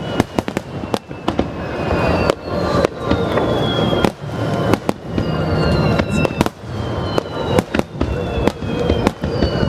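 Aerial fireworks shells bursting in rapid succession, a dense run of sharp bangs and crackles. High whistling tones glide downward every second or two through it.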